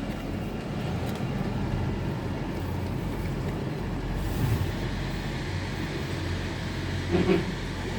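A train's steady low engine rumble and hum.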